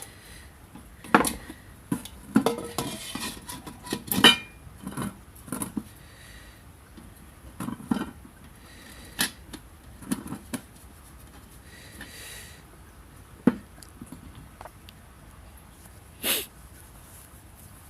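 Irregular clinks and knocks of small metal objects being handled, with a few brief scraping sounds.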